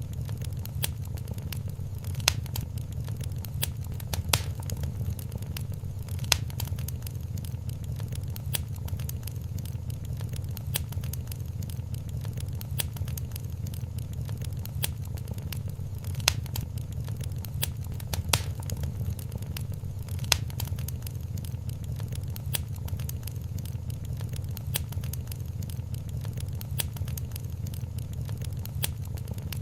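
Wood fire in a fireplace crackling steadily: a dense run of small crackles over a low rumble, with a louder pop every few seconds.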